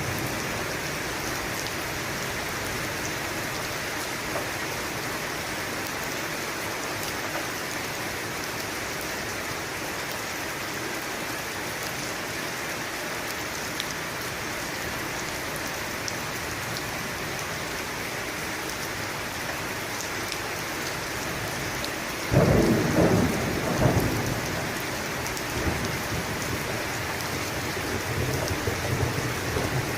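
Steady heavy rain falling. About three-quarters of the way through, a clap of thunder rumbles loudly for a couple of seconds, with fainter rumbles following near the end.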